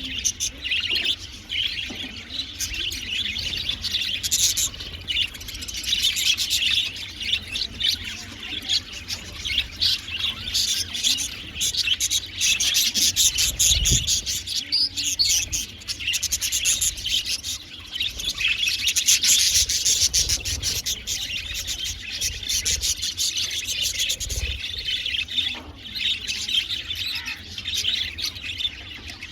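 A flock of budgerigars chattering and warbling without pause, a dense mix of rapid high chirps and trills.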